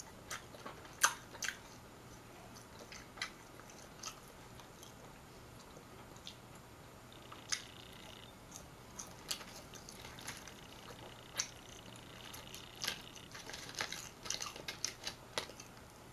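A person chewing and biting food, with irregular short, sharp mouth clicks and smacks.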